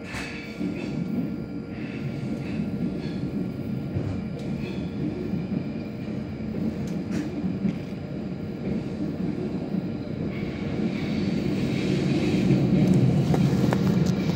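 City Airport Train rumbling along the track, heard inside the passenger car, growing louder in the last few seconds as faint higher tones join the rumble, with a few light clicks.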